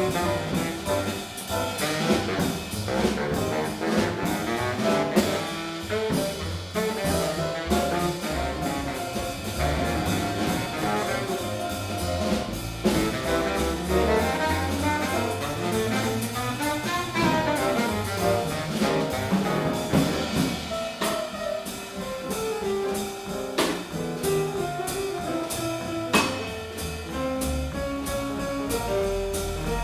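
Jazz quintet of baritone saxophone, trumpet, piano, double bass and drums playing a bebop tune, a horn running quick lines of notes over bass and drum kit with cymbals.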